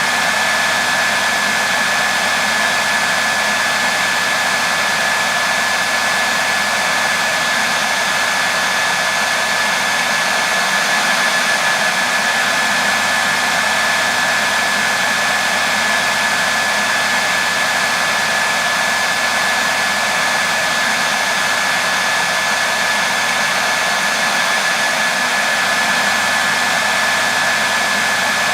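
Hair dryer running steadily: an even hiss of blown air with a thin, steady whine.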